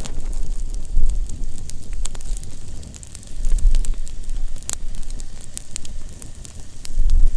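Small campfire crackling, with scattered sharp pops and one louder pop about halfway through, over a low rumble that swells and fades.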